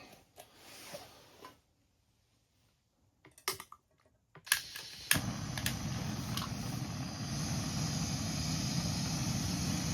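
A few short clicks, then about five seconds in a steady rushing noise starts and keeps going: a gas stove burner lit to heat the frying oil.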